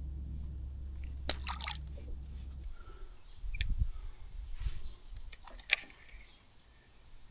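Insects, crickets among them, keeping up a steady high drone, over a low rumble that stops a little under halfway. A few sharp clicks and knocks, with low thumps, come in between.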